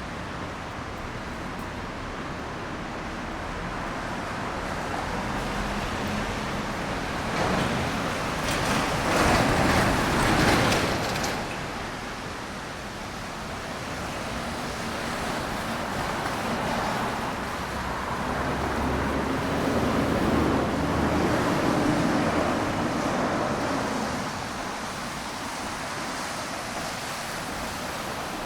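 Street traffic on wet roads: a steady hiss of tyres on wet asphalt, with a vehicle passing close about eight seconds in and a second, slower pass with a low engine hum near the middle-to-end.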